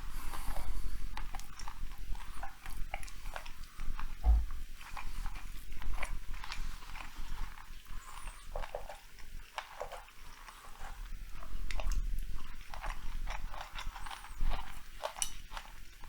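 Close-miked chewing and mouth sounds of a person eating large sushi rolls: irregular wet smacks and clicks with occasional low bumps, picked up by a clip-on lavalier microphone.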